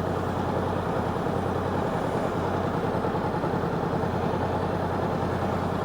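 Motorcycle engine idling steadily, with an even, fast pulsing beat.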